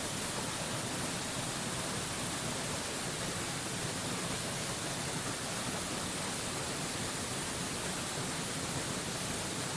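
Waterfall rushing in a steady, even hiss, unchanging throughout.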